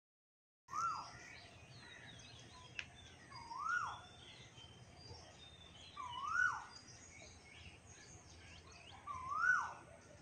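A bird calling four times, about every three seconds, each call a short note that rises and then falls, over faint chirping of other birds.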